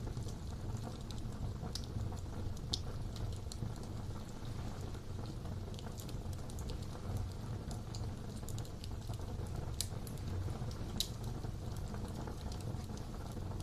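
Wood fire burning in a fireplace: a steady low rumble of the flames with scattered sharp crackles and pops, the loudest near the middle and about three-quarters of the way through.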